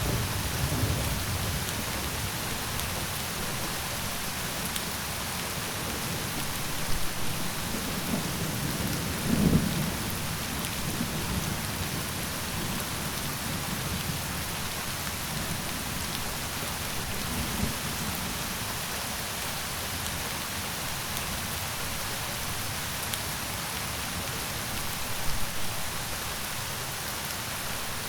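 Steady rain hissing without a break, with low rumbles of thunder swelling a few times, the strongest about nine seconds in.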